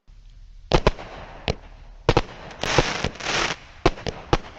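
Consumer fireworks cake firing: a string of sharp cracking reports, some in quick pairs, with a hissing, crackling stretch about three seconds in.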